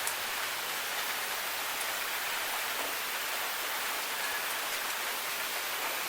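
Steady rain falling, an even hiss with a few single drops ticking out of it now and then.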